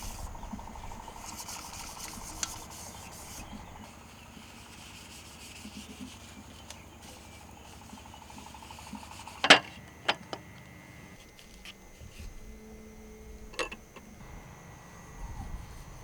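A few sharp knocks or clicks, the loudest about halfway through and two lighter ones after it, over a faint steady outdoor background with a thin high tone.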